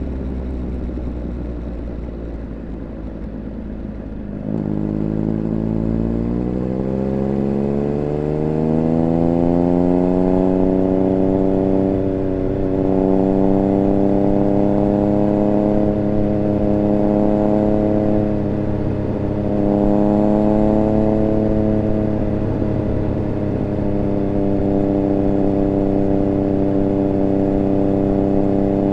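Triumph Speed Triple 1200 RR's inline three-cylinder engine heard onboard, running low and steady at first. About four seconds in it picks up and climbs steadily in pitch under acceleration. It then holds a higher, steady pitch with a few brief dips as the throttle eases.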